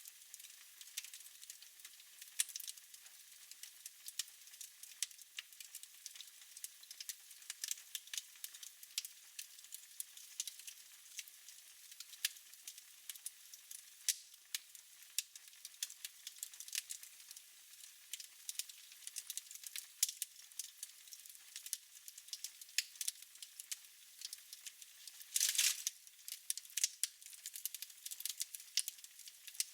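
Fire crackling in a fireplace: a steady stream of irregular small snaps and pops, with a brief louder hiss near the end.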